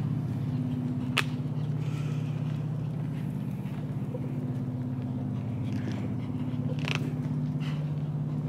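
Steady low engine hum of a car idling close by, with one sharp click about a second in.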